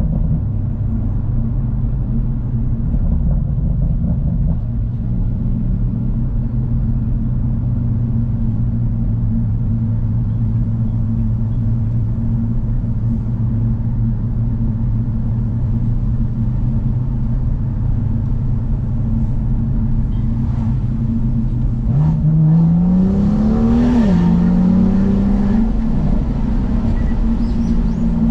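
BMW M2's N55 turbocharged straight-six through a Remus exhaust, cruising with a steady low drone. About 22 seconds in it accelerates, the pitch rising for two seconds, then drops sharply at an upshift and settles back to a steady drone.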